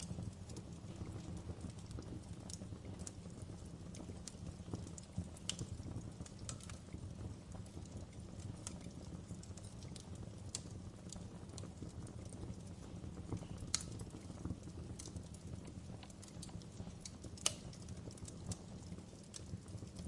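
Wood fire crackling: a steady low rumble of burning with irregular sharp pops and snaps, two louder pops about 14 and 17 seconds in.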